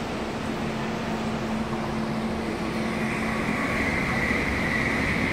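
MTR Tung Chung line A-train electric multiple unit at the platform: a steady low hum, with a high steady whine coming in about halfway through and growing louder.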